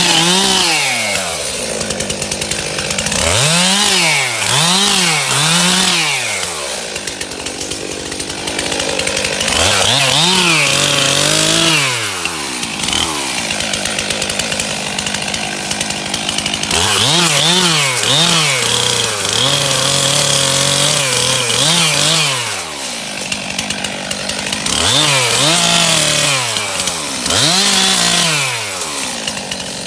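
Two-stroke chainsaw cutting wood, its engine revving up and dropping back again and again in swells of about a second, in several runs with steadier running between them.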